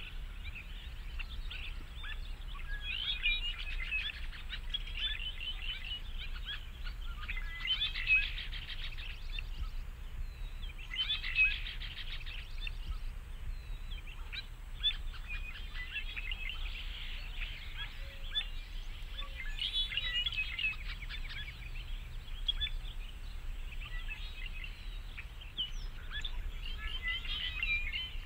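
Small birds chirping and twittering in repeated clusters of quick high notes, over a steady low rumble.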